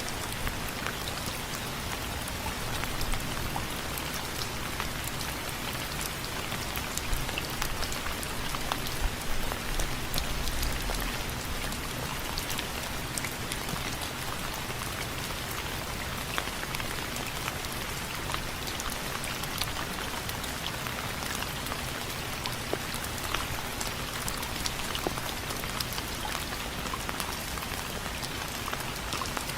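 Steady rain falling on window frames, with many separate drops landing as sharp ticks over the even hiss of the downpour.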